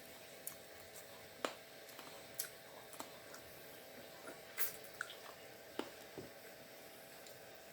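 Quiet eating sounds: a scattering of short, wet mouth clicks and small ticks as a person chews and eats, about eight in all, the loudest about one and a half and four and a half seconds in.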